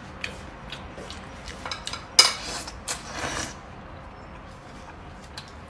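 Utensils clicking against a bowl while fire noodles are being eaten, with two louder, scraping bursts a little past the middle.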